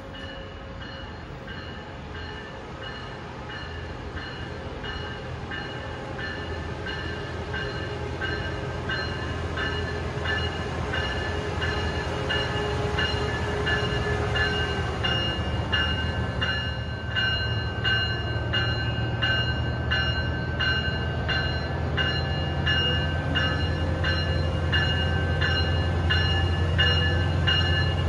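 A passenger train approaching and growing steadily louder, with a low rumble building underneath. A rhythmic ringing at about two strokes a second sits on top.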